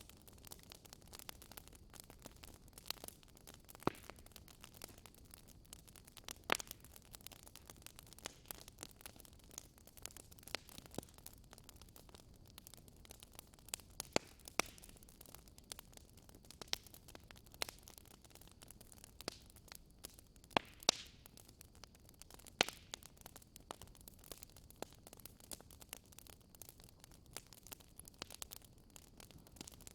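Wood fire crackling in a fireplace: a soft steady hiss with irregular sharp pops and snaps, a few louder ones standing out.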